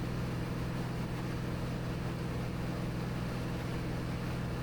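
Cirrus SR22T's turbocharged six-cylinder engine and four-blade propeller in steady cruise, a constant low drone heard inside the cabin.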